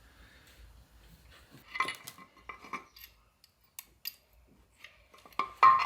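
Steel gearbox parts clinking and ringing as they are handled and set down: a few clinks about two seconds in, then a louder ringing clink near the end.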